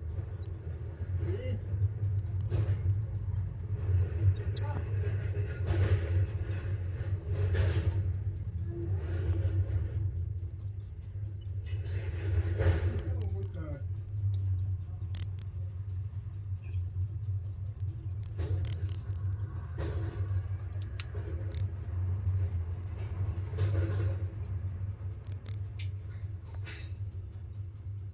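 A cricket chirping steadily in a fast, even rhythm of about three high-pitched chirps a second, over a low hum.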